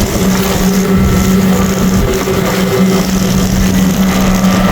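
Jet boat engine running at a steady pitch, over a constant rush of noise.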